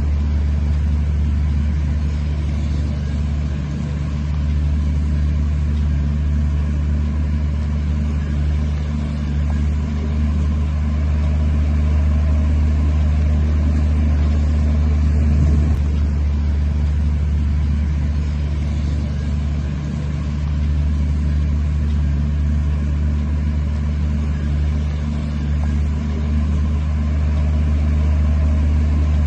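Heavy diesel earthmoving machine engine running steadily at a constant low pitch, cutting in suddenly at the start.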